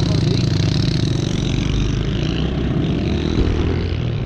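Yamaha TT-R110 pit bike's small air-cooled four-stroke single running steadily under way, with rapid even firing pulses.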